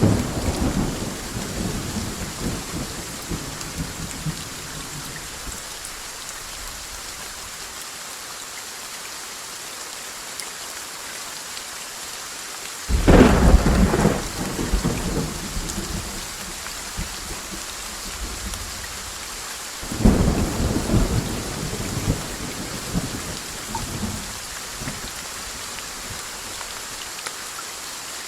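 Steady rain with thunder. A rumble dies away over the first few seconds, then a sudden thunderclap a little before the middle rolls on for a few seconds, and a second clap about two-thirds of the way through does the same, all over a constant hiss of rain.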